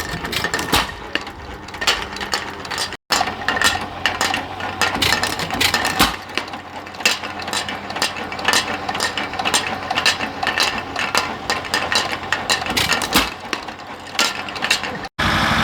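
Antique engine machinery clattering, with dense irregular clicks and knocks over a faint steady hum.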